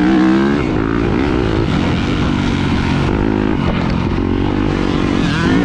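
Off-road race vehicle engine running hard, its pitch rising and falling as the throttle opens and closes, with a steady rushing noise underneath.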